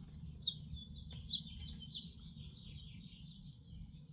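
Small bird chirping: a quick run of short, high, falling chirps that thins out after about two seconds, over a low steady rumble.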